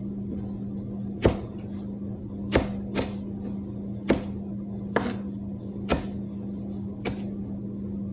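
A knife chopping on a cutting board: about seven sharp, irregularly spaced strikes, a second or so apart, over a steady low hum.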